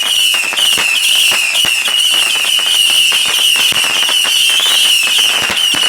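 Fireworks going off: a loud high warbling whistle that repeats about three times a second, over a dense run of crackling pops.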